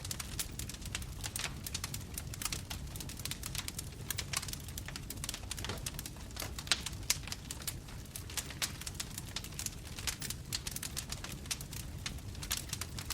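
Wood fire burning, with dense, irregular crackles and pops over a steady low rumble of flames.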